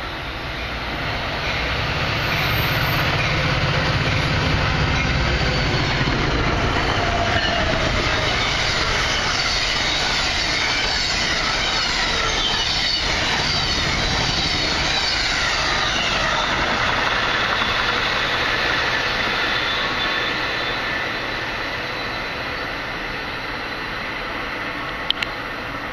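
Passenger train passing at speed: a low rumble builds as the locomotive approaches and goes by, then the cars rush past with a high, wavering wheel-on-rail squeal and clatter, fading away over the last few seconds. A sharp click sounds near the end.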